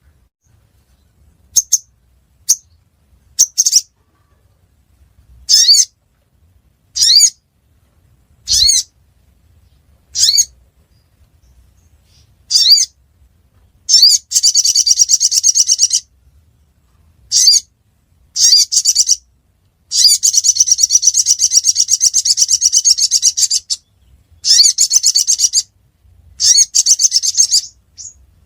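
Sogok ontong (little spiderhunter) calling: sharp, high single notes a second or two apart, then from about halfway in, long rapid trills of many fast repeated notes, some running several seconds.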